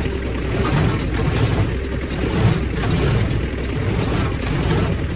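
Heavy engine running steadily: a low rumble with an uneven pulse.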